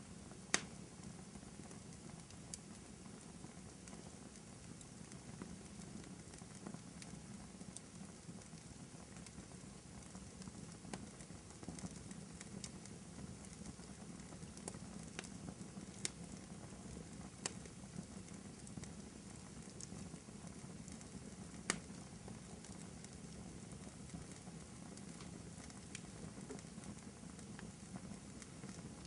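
Fireplace crackling softly: a low steady rumble of flames with scattered sharp pops and snaps, the loudest about half a second in and another sharp pop about two-thirds of the way through.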